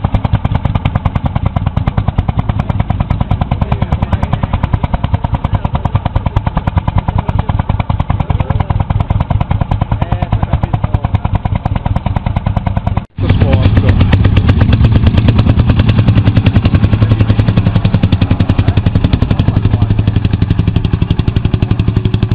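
Old tractor engine running with a fast, even chugging beat. Partway through the sound cuts out for an instant and returns louder and deeper.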